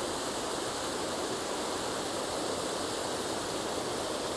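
Water from a pond's spillway pouring down into a pool like a small waterfall: a steady, loud rush of water.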